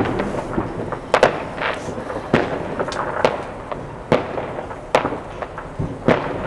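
Fireworks going off in a rapid sequence: about six sharp bangs at roughly one-second intervals, each trailing off briefly, with smaller pops between them.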